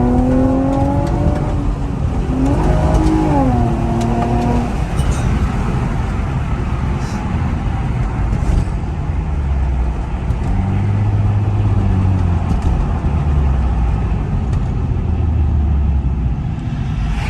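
2007 Infiniti G35 Coupe's V6 with a Motordyne exhaust accelerating: the exhaust note rises in pitch, drops briefly at a gear change about two seconds in, and climbs again. About five seconds in it falls back to a lower, steadier drone under road and wind noise as the car cruises.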